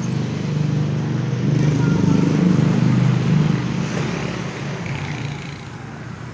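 Strong wind gust buffeting the microphone with a heavy low rumble, swelling about two seconds in and easing off toward the end.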